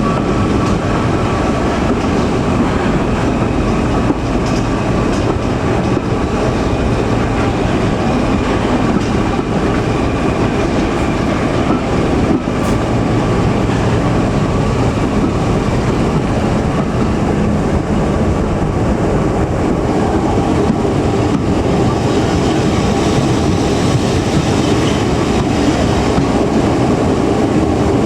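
A heritage diesel train on the move behind Class 14 diesel-hydraulic D9551: a loud, steady running noise of wheels on rail and the locomotive, with a single sharp click about halfway through.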